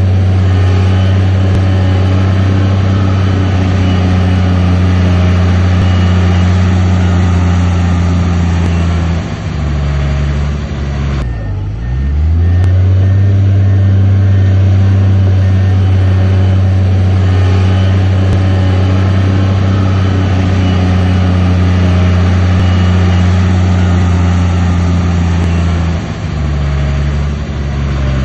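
Diesel engine of heavy earthmoving equipment running hard. About ten seconds in, the revs drop and climb back, and near the end they fall to a lower, lighter note.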